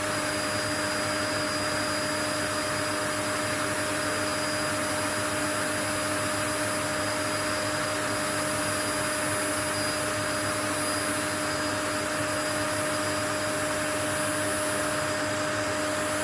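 Steady white noise: a continuous, even hiss that does not change, with a few faint steady tones running through it.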